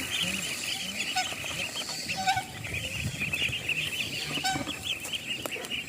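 A flock of young farm ducks calling, many short calls overlapping, with a dense high chirping running throughout.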